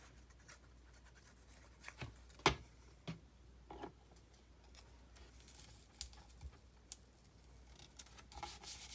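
Paper and craft supplies handled on a tabletop: scattered light taps, clicks and soft scrapes, the sharpest tap about two and a half seconds in.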